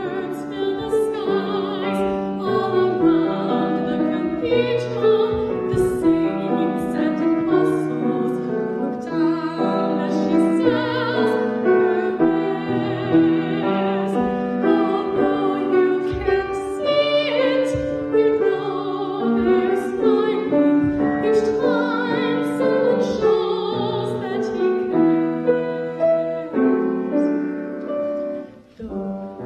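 A girl singing a slow classical-style song with piano accompaniment, the voice holding long notes, with a brief pause between phrases near the end.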